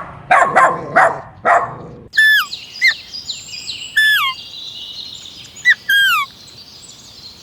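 A dog barking about four times, then after a sudden cut a bird calling: about six short whistled notes, each sliding sharply downward.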